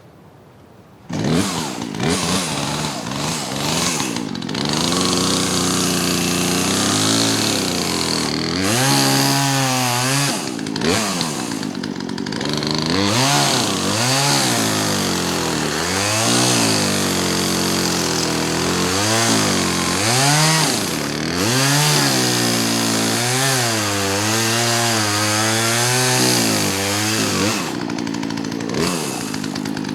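Two-stroke gas chainsaw coming up to full throttle about a second in, then revving up and down over and over as it cuts into small trees, easing off briefly near the end before picking up again.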